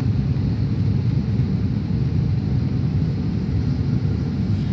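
Steady low roar inside the passenger cabin of an Airbus A330-900 in flight: its Rolls-Royce Trent 7000 engines and the airflow over the fuselage.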